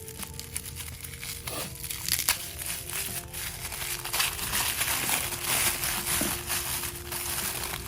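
Paper packaging crinkling and crackling as it is handled and unwrapped, over soft background music.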